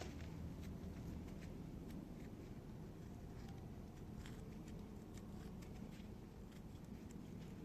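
Wood fire crackling: small irregular pops and snaps over a steady low rumble.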